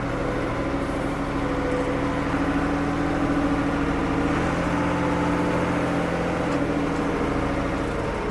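Diesel engine of a 1975 Ford 550 backhoe running steadily, its pitch wavering slightly.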